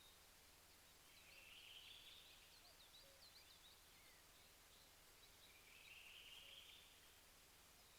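Faint songbird calls: a rapid trill about a second in and another around six seconds, with scattered short high chirps between.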